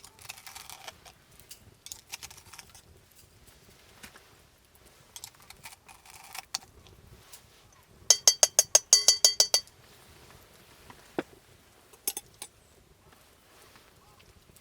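A quick run of about a dozen sharp metallic clinks with a bright ring, lasting about a second and a half past the middle, among scattered small knocks of camp cooking gear.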